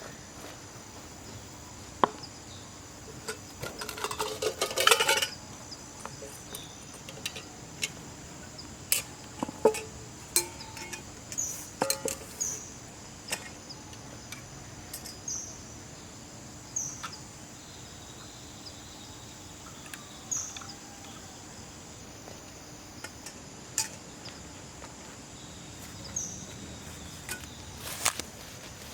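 Steady high insect drone with short chirps that repeat every second or two, over scattered light clicks and knocks, with a quick cluster of rattling knocks about four to five seconds in.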